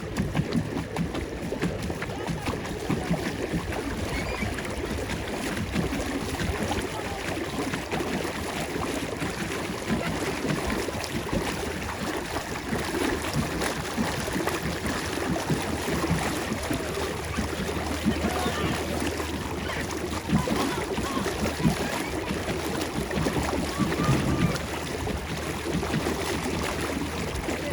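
Water splashing and churning around a pedal-powered paddle boat out on a pond, with wind on the microphone.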